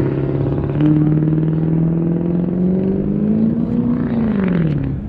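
Truck engine held at high revs during a burnout, its pitch climbing slowly for about four seconds and then dropping away near the end as the throttle comes off.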